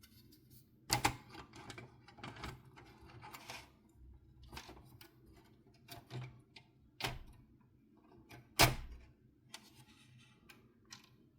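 Irregular clicks and light knocks of a PlayStation 4's parts and tools being handled during repair work, with two sharper knocks, one about a second in and one about three-quarters of the way through.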